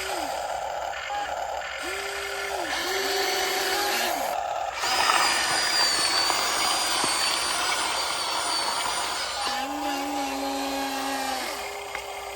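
Radio-controlled excavator's electric motors whining in short starts and stops as its controls are worked, with a louder, steadier whirring from about five seconds in.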